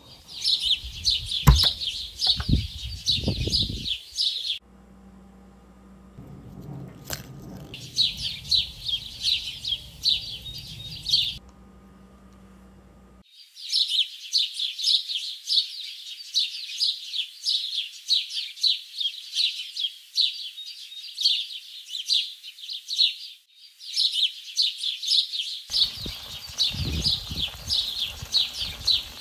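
Garden birds chirping and singing in a dense, rapid chorus, which cuts off abruptly a few times. Low thumps and rumble come in under it for the first few seconds and again near the end.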